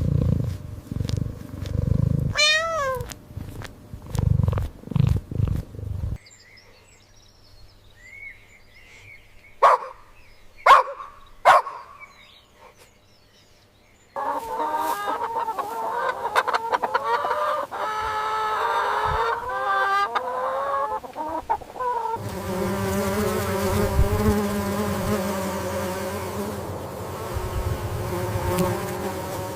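Animal calls from several short clips: low rumbling with a wavy falling call, then three sharp loud calls about ten seconds in, and from about the middle on a dense chorus of overlapping fowl calls.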